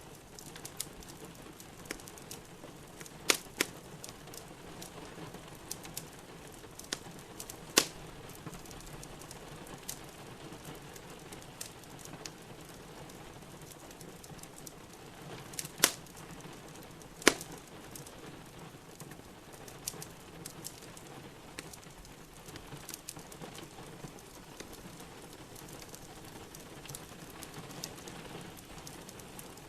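Wood fire crackling in a fireplace, with small ticks throughout and four loud sharp pops, over a steady patter of rain.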